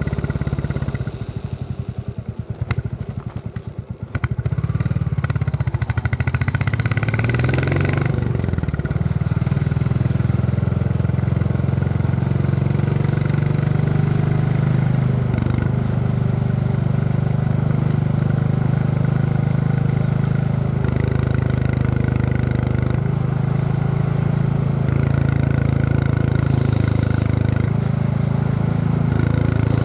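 Royal Enfield Classic 350's single-cylinder engine thumping at low revs for the first few seconds, then picking up with rising revs and running steadily under way, its pitch stepping up and down several times as the ride goes on.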